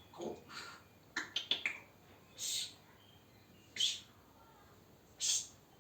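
African grey parrot chattering to itself: a couple of short low mumbles, a quick run of clicks, then three short high-pitched calls spaced more than a second apart.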